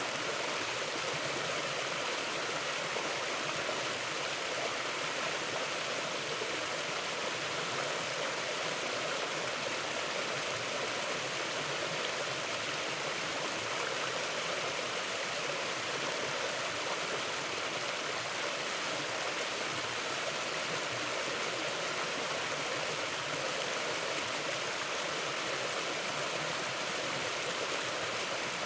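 A mountain stream flowing steadily over rocks, a continuous rushing and babbling of water.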